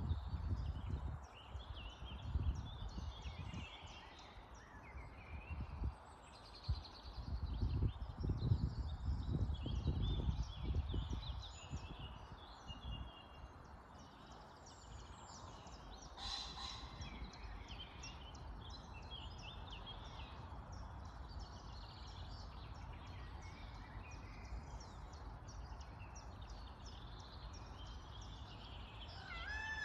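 Many wild birds chirping and singing together in a steady chorus of short calls and trills. In the first twelve seconds or so there is also a loud low rumble that comes and goes.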